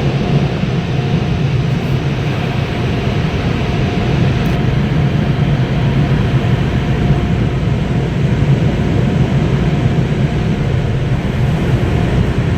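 Automatic car wash air-dryer blowers running steadily, a loud rushing noise with a low hum underneath, at the end of the wash cycle.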